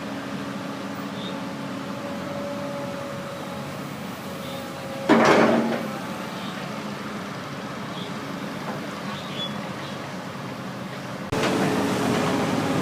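Heavy diesel engine running steadily. About five seconds in there is a brief loud burst whose pitch falls away. Near the end the sound steps up suddenly and stays louder.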